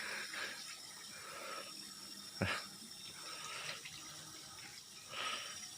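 Faint, steady running water, with a single knock about two and a half seconds in.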